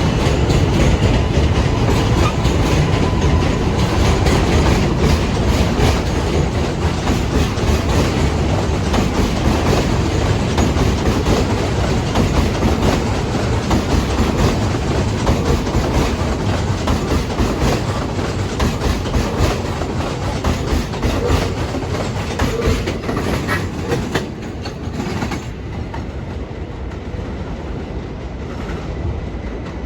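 New York City subway train running through the station on elevated track, its wheels clattering over rail joints, the noise fading away about 25 seconds in.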